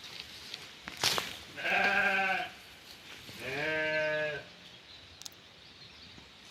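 A sheep bleating twice, each bleat lasting about a second, the second slightly lower. A short click comes about a second in.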